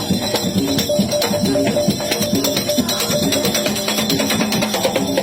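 Madurese saronen music from a daul percussion ensemble: a stepping reed melody over fast, dense drumming and jingling percussion.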